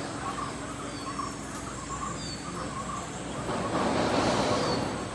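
Outdoor ambience with a few short, faint bird chirps, and a swell of noise about four seconds in.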